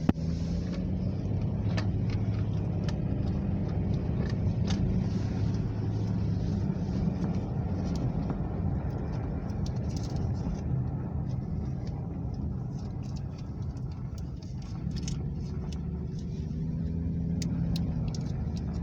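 A car driving through deep snow, heard from inside the cabin: a steady low engine and road drone, with scattered small clicks.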